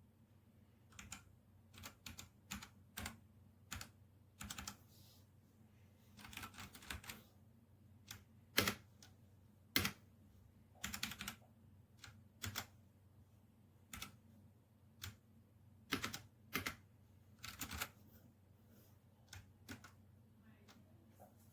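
Keys being pressed on a Redragon K617 Fizz 60% hot-swap mechanical keyboard. The clacks come irregularly, sometimes one at a time and sometimes in short runs of a few quick keystrokes.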